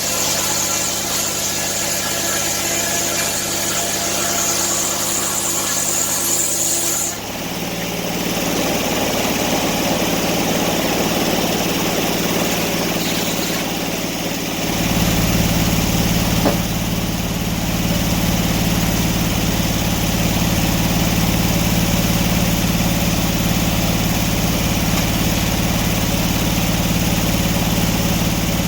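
Engine running steadily. About seven seconds in a high whine stops and the tone shifts, and about halfway through the low rumble grows louder and stays that way.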